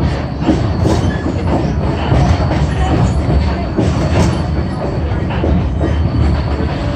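Passenger train rolling along the track, heard from on board: a steady low rumble of the wheels on the rails with frequent small knocks and rattles of the car.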